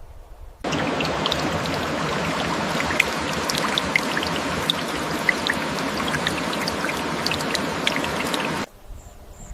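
Running, splashing water: a steady rush dotted with small droplet plinks. It starts abruptly about half a second in and cuts off abruptly about a second before the end.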